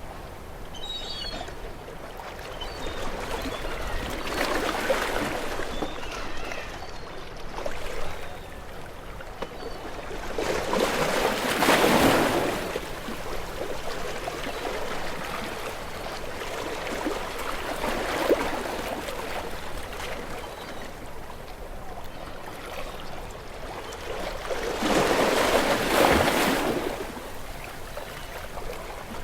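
Sea waves washing in and breaking against shore rocks, rising to a surge about every seven seconds over a steady wash of water; the biggest breaks come about midway and near the end.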